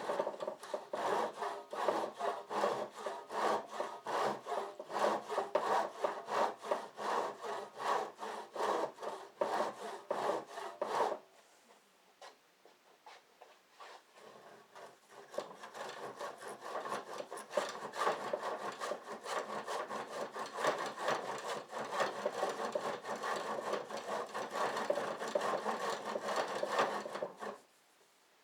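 Hand saw cutting through the end of a garage door in quick, steady back-and-forth strokes. The sawing stops for about three seconds partway through, then resumes and carries on until shortly before the end.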